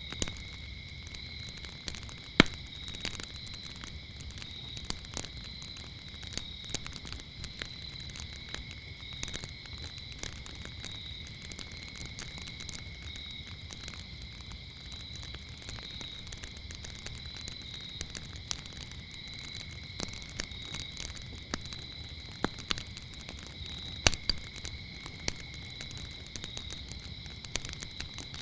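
Wood fire crackling with frequent sharp pops, the loudest a couple of seconds in and again late on, over a steady, high-pitched chorus of chirping crickets.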